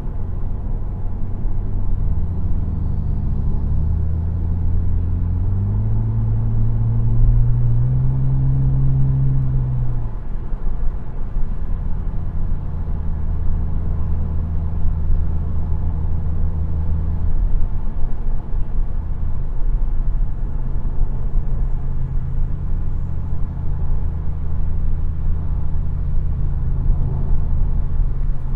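Car engine running, its pitch climbing in several steps for the first ten seconds or so, then dropping back and holding a steady low note.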